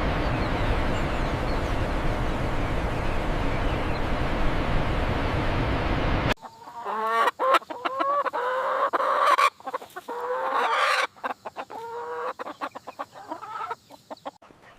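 A steady rushing noise for about six seconds, which cuts off abruptly. Then chickens cluck in a run of short, pitch-bending calls.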